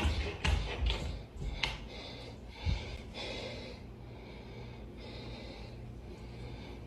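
A few sharp knocks and rustles in the first couple of seconds and a thump about three seconds in, over a steady low hum with soft breathy noise, as picked up by a phone's microphone in a quiet room at night.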